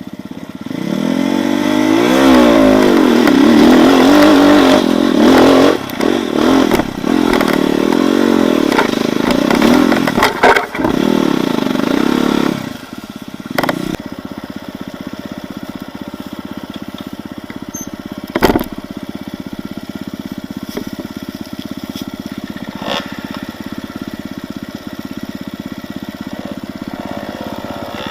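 Enduro motorcycle engine revving hard, its pitch rising and falling again and again for about twelve seconds, then dropping to a steady idle with a few clicks.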